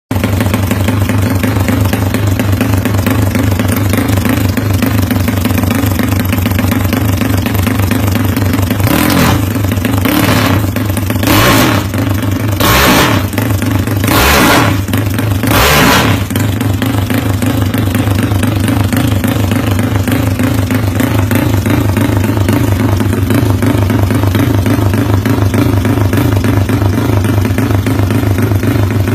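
Modified Yamaha Mio scooter engine, set up Thai style, idling with a choppy, helicopter-like beat. The throttle is blipped about five times in quick succession in the middle.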